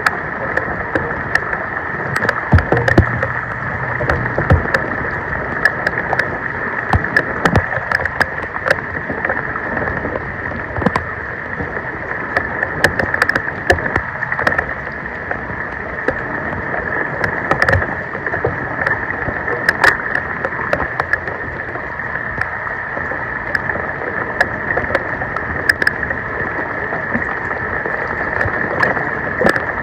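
Floodwater splashing and rushing steadily, with frequent small clicks and knocks throughout.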